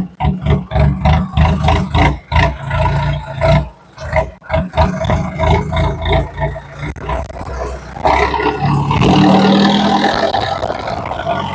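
Tractor diesel engine revving. It pulses rapidly and unevenly at first, then about two-thirds of the way in it settles into a steadier, louder held rev.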